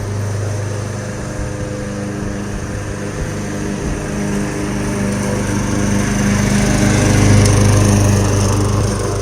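Lawn mower engine running steadily, growing louder about two-thirds of the way through, then easing off slightly near the end.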